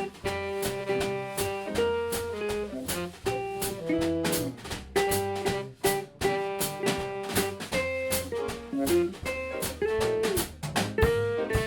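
A live jazz combo playing an instrumental passage: drum kit keeping time under a lead melody of held and sliding notes.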